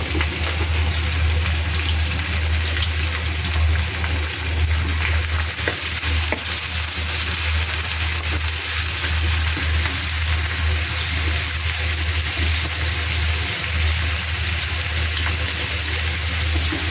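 Carrots, garlic and onion sautéing in hot oil in a pan, a steady sizzling hiss over a constant low hum, with a few light clicks of stirring.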